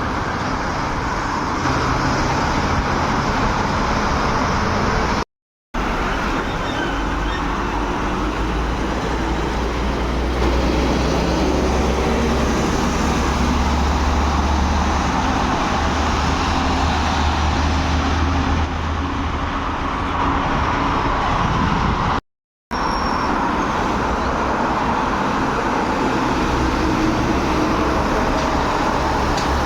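Road traffic with heavy trucks running past, a steady rush of engine and tyre noise with a low engine drone that swells in the middle. The sound drops out completely for a moment twice, at cuts between clips.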